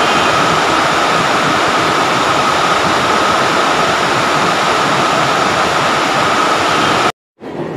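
Heavy rain falling steadily on leafy trees and shrubs, a dense even hiss with a thin steady high tone running through it. It cuts off suddenly near the end.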